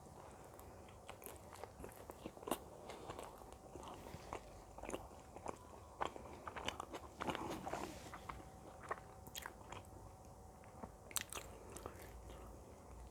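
Close-miked chewing and biting of pizza: faint, irregular mouth clicks with no set rhythm.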